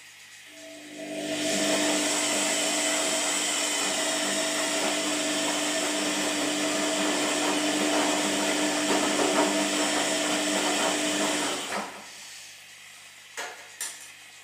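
Washing machine running: a hum starts, then a loud, steady rushing sound with a hum in it lasts about ten seconds and cuts off abruptly, followed by two short clicks.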